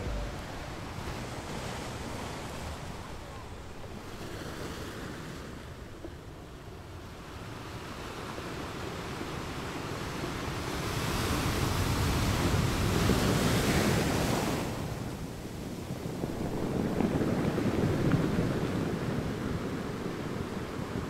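Small waves breaking and washing up on a sandy shore, with wind blowing on the microphone. The surf swells louder about halfway through and again a few seconds later.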